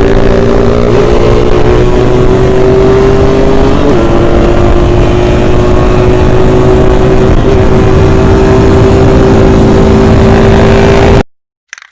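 Yamaha RX-King's two-stroke single-cylinder engine running loud and steady at high revs while riding, with brief dips in pitch about one and four seconds in. The sound cuts off suddenly near the end.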